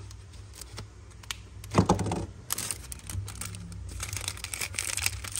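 Handling noises from a Zippo lighter being picked up and shown: a run of light clicks, a louder knock about two seconds in, then crinkling rustles.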